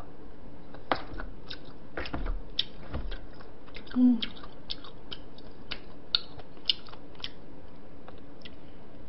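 Close-miked chewing of crunchy soybean sprouts, with scattered crisp crackles and clicks. There is a short voiced hum about four seconds in.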